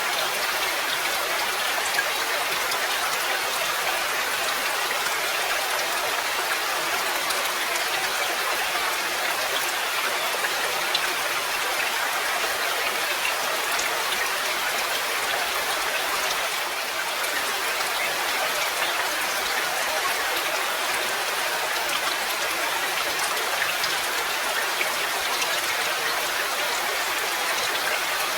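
Steady rain: a dense, even hiss of falling water with a fine patter of individual drops.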